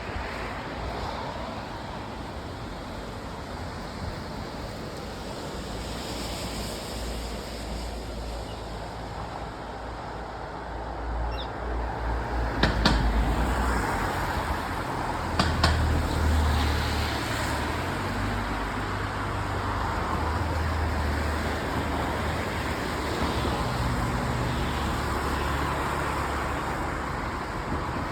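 Steady road traffic noise with wind buffeting the microphone, and two short sharp clicks about halfway through.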